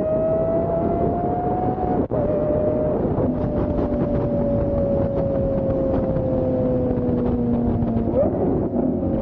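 A car engine droning at a steady, high engine speed, its pitch drifting slowly up and then down, with a brief break about two seconds in.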